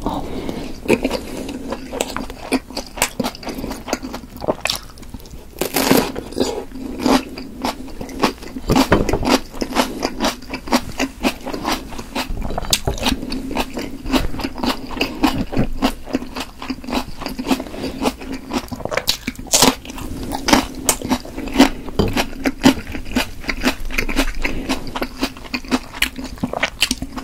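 Close-miked chewing of chewy steamed potato dumplings: wet, sticky mouth sounds with many sharp clicks, broken by a few louder crunches from bites of raw chili pepper.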